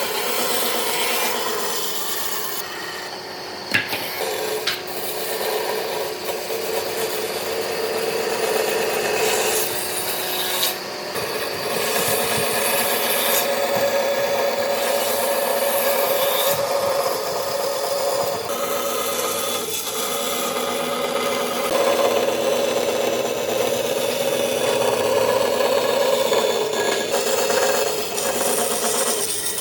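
A tool working wood with a continuous abrasive rubbing and scraping, with a sharp click about four seconds in.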